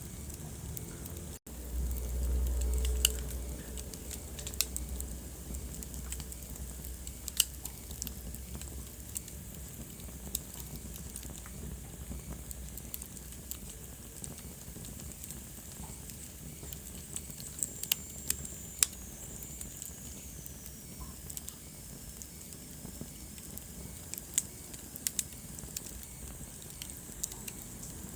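Wood fire crackling in a fireplace: a steady hiss with irregular sharp pops and a low rumble of flames that is strongest a few seconds in. A faint high whistle falls in pitch past the middle.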